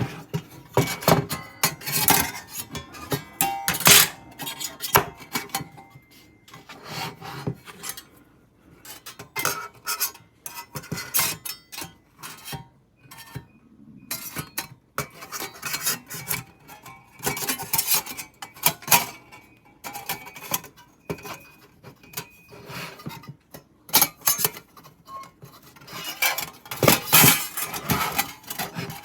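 Irregular knocks, scrapes and clinks of wood and metal being handled, with faint music underneath.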